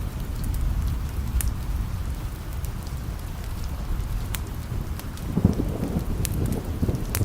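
Steady rain with a low rolling rumble of thunder that swells about five seconds in, over scattered sharp clicks.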